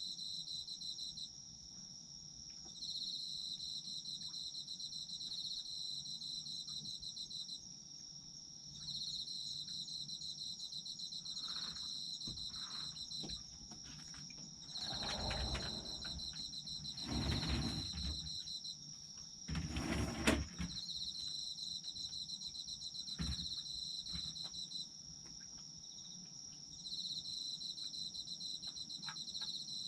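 Autumn crickets calling: one steady high trill, while another chirps in bouts of a few seconds separated by short pauses. A few brief rustling or thumping noises come midway, the loudest about twenty seconds in.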